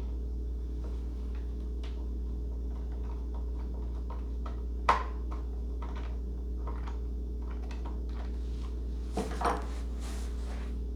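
Light clicks and taps of RC plane parts and tools being handled during assembly, over a steady low hum. There is a sharper click about five seconds in and a brief clatter of a few knocks near the end.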